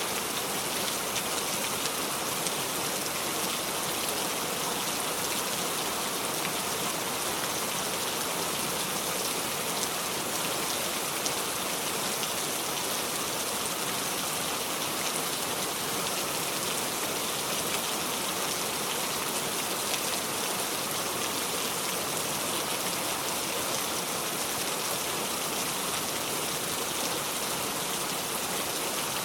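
Steady heavy rain falling on a surface, a dense even hiss of many drops with no thunder.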